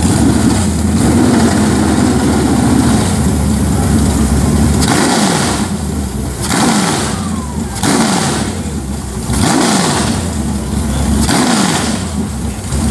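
Car engine running loud, then revved in a series of short throttle blips about once a second in the second half, the pitch falling back after each one.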